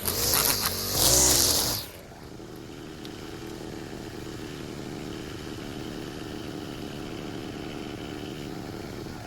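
Small gasoline engine of lawn-care equipment running loud for about two seconds, then dropping to a quieter, steady running for the rest.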